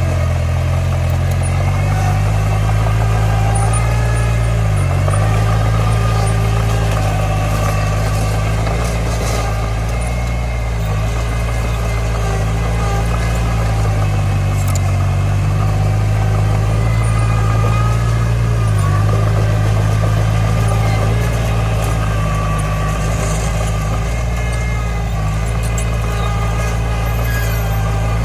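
Heavy-equipment diesel engine running steadily, its pitch dipping briefly and recovering a couple of times.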